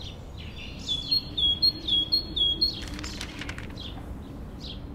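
A small bird chirping: a quick run of about five repeated high chirps, each slurring downward, then a few scattered chirps, with some soft clicks about three seconds in over a low steady hum.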